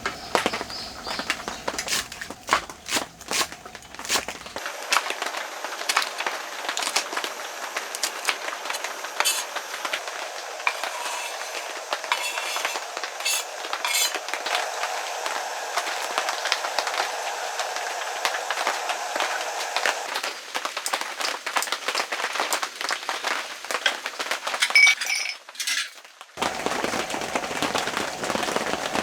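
Utensil clinking and scraping against a pan while sundae is stir-fried in spicy sauce, with many quick, irregular clinks over a steady hiss.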